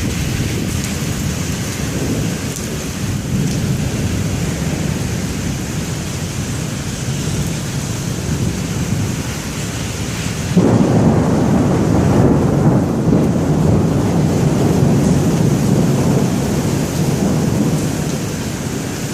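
Severe thunderstorm: a steady rush of heavy, wind-driven rain. A little past halfway a sudden, louder low rumble sets in and slowly fades over several seconds.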